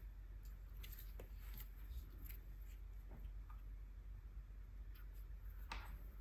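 Faint scratchy strokes and small ticks of acrylic gouache being swatched on paper, with one louder swish near the end.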